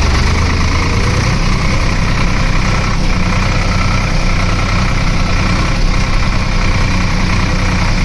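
Swaraj 855 tractor's three-cylinder diesel engine running steadily at an even, low speed.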